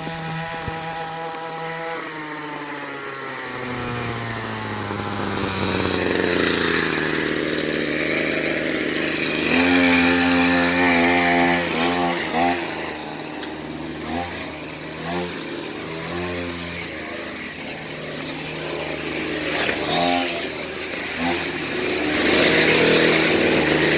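Motorcycle engine running, its pitch falling over the first few seconds, then revving up and down in short bursts from about ten seconds in.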